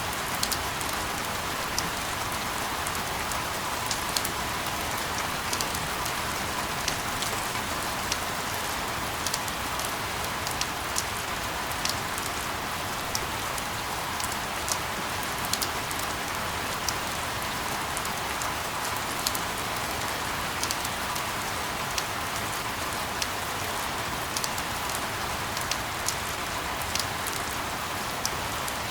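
Steady rain noise with many scattered sharp drop ticks, an even hiss that does not change.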